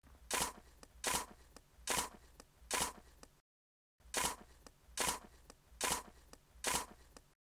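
Miniature metal hoe blade scraping and chopping into dry, gritty soil in short strokes, about one a second, eight strokes in two runs of four with a brief break between them.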